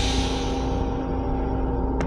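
Metro-North M7 railcar heard from inside its restroom: a steady low rumble with a constant electrical hum. A hiss that has just started fades away over about the first second.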